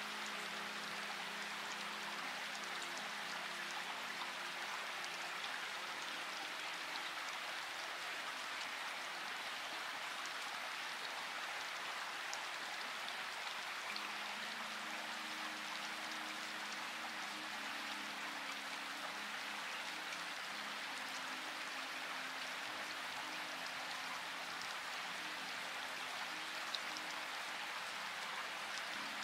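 Steady rain: a dense, even hiss of falling drops with scattered faint sharper drop ticks. Faint low held notes of soft background music sound underneath.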